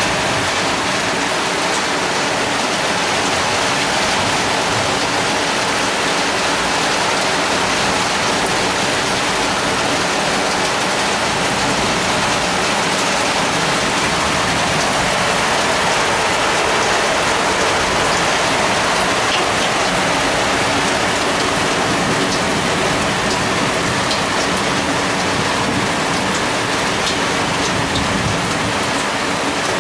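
Heavy rain pouring down steadily, with water dripping off a roof edge.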